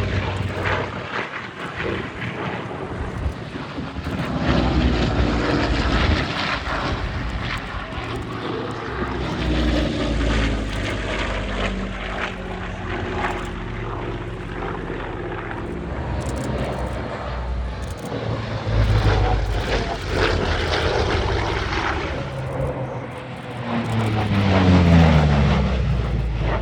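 Propeller engines of a Lockheed P-38 Lightning warbird making display passes. The engine note swells and fades as it goes by and drops in pitch on each pass, and the loudest pass comes near the end.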